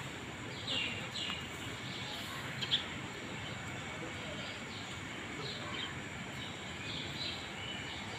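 Small birds chirping in short, scattered calls over a steady outdoor background noise.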